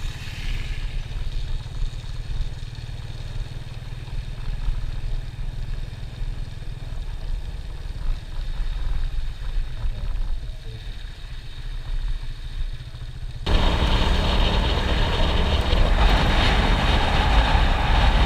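Motor vehicle running on the road, a steady low engine rumble with road noise; about 13 seconds in it abruptly turns into a louder, fuller rushing noise.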